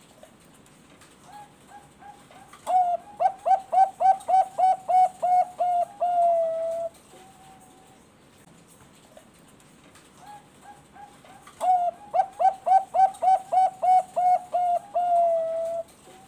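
Zebra dove (Bangkok perkutut) singing two song phrases. Each phrase opens with a few soft coos, then runs into a quick series of about a dozen loud staccato coos and ends on one longer drawn-out note.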